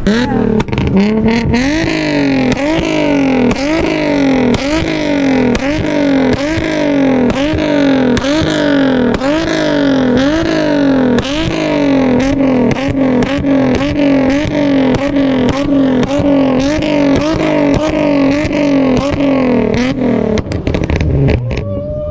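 Car engine revved over and over in quick throttle blips, about one and a half a second, each rise in pitch falling back with a sharp crack. The revving stops about twenty seconds in.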